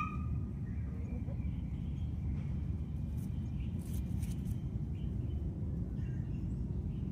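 Steady low rumble, with faint short clucks and calls from backyard chickens and a few small birds over it, one clearer call right at the start. A few brief light clicks come a few seconds in.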